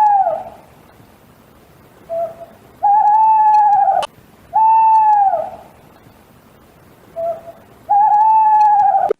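A bird giving clear, hooting whistled calls, each note about a second long and falling slightly at its end, repeated several times, some preceded by a short lower note. A sharp click comes about four seconds in.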